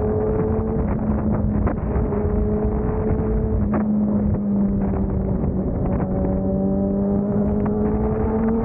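Motorcycle engine running steadily under way, its note holding level and then climbing slowly near the end, over the rush of wind and road noise.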